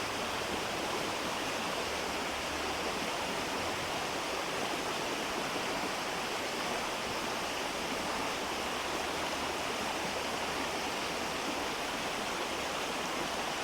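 Steady rushing of a flowing river or stream, an even hiss without breaks.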